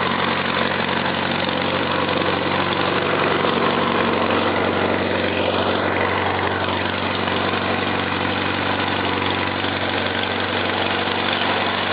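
Farmall Cub tractor's four-cylinder engine running steadily just after a cold start, smooth and even.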